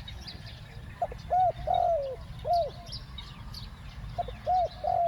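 Spotted dove cooing: a phrase of four arched, hooting notes starting about a second in, then the same phrase starting again near the end. Small birds chirp faintly in the background.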